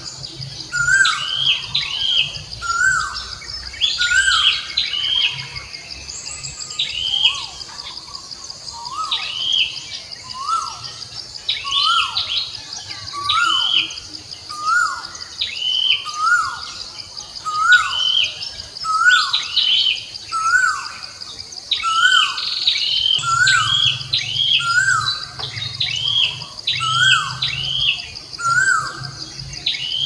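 Birds chirping, short sweeping notes repeated about once a second, over a steady high buzz.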